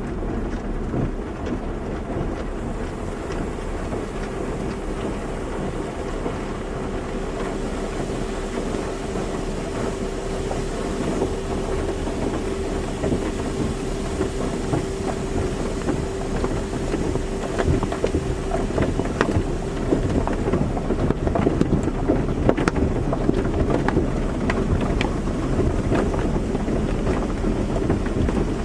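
Automatic car wash running: water spraying and drumming on a car over a steady machine hum. A low whine holds from about four seconds in until past the middle, and the splashing grows busier and a little louder near the end.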